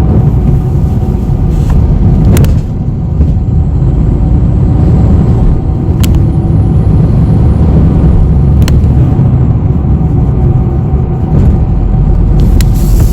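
Steady low rumble of a city bus heard from inside the cabin, with three sharp clicks or rattles spread through it.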